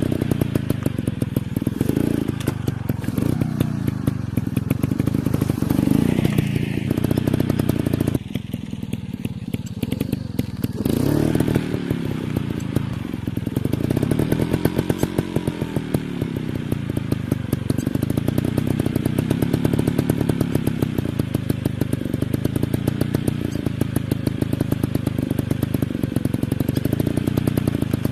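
Dirt bike engine running under varying throttle, the revs rising and falling over and over. About a third of the way in it eases off briefly, then builds again.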